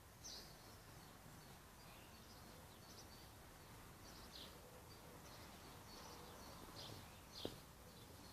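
Faint, scattered bird chirps over quiet outdoor background noise, with a single sharp click near the end.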